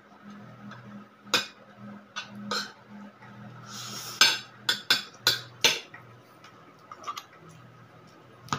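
Eating utensils clinking and tapping against plates and bowls during a meal: scattered sharp clinks, with a quick run of about five in the middle, over a steady low hum.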